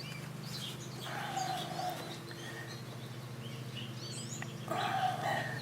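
Birds chirping and calling, with two louder calls about a second in and near the end, over a steady low hum.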